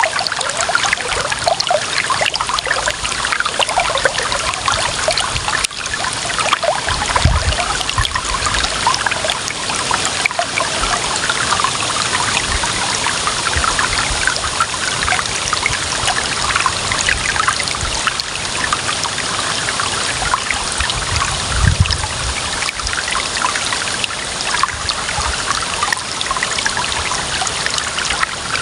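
Clear water running and trickling steadily over stones in a shallow stream, with brief low rumbles about seven seconds in and again near twenty-two seconds.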